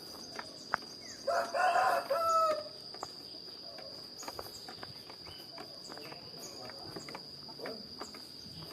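A rooster crowing once, about a second in, lasting just over a second, over a steady high insect trill.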